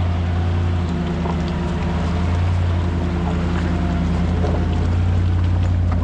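4x4 vehicle's engine running steadily at low revs, a constant deep hum, as the vehicle works through a river crossing with water noise underneath.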